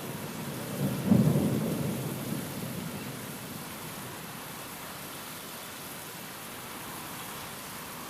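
Steady rain with a clap of thunder about a second in, its low rumble fading away over the next two seconds.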